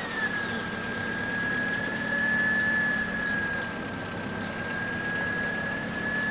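Small car's engine idling just after starting, with a steady high whine running over the idle.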